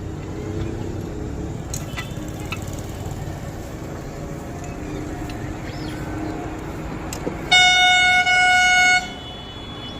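A vehicle horn blares for about a second and a half, with a brief break partway through, over a low steady rumble of street noise.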